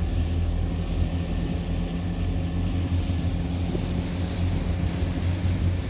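Motorboat engine running at a steady drone, with wind on the microphone.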